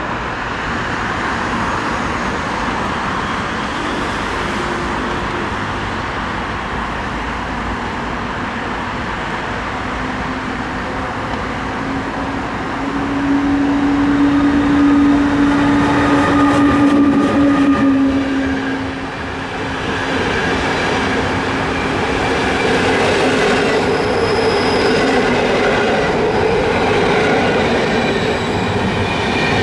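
A train running through a station: continuous rolling noise of wheels on rails, with a steady hum that swells to its loudest about halfway through and then drops away.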